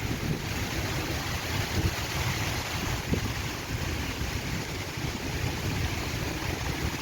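Heavy storm rain falling steadily, with gusty wind buffeting the microphone in an uneven low rumble.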